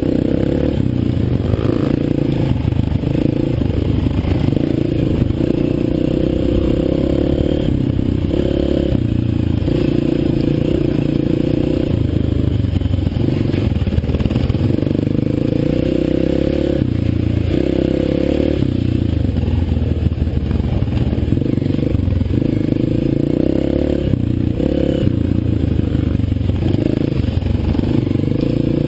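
Dirt bike engine running as the motorcycle is ridden, its pitch rising and dropping every few seconds with the throttle, over a rattling clatter.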